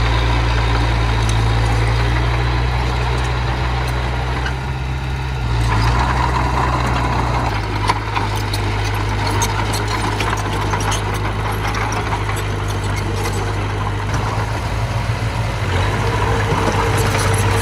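Diesel engine of earthmoving machinery running steadily, its low drone changing pitch about six and eight seconds in, with light clicks and rattles over it in the middle.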